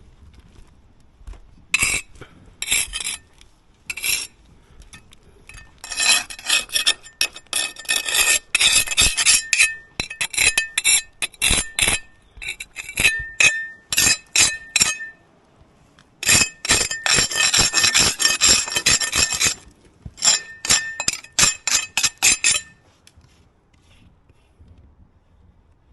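Rapid scraping or rasping strokes of a hard tool on a hard surface, in several runs of quick strokes with a faint metallic ring.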